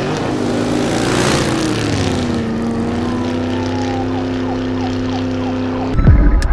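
A vehicle-like droning sound: a loud whoosh swells and fades about a second in while the drone's pitch falls, then the drone holds steady before cutting off suddenly near the end.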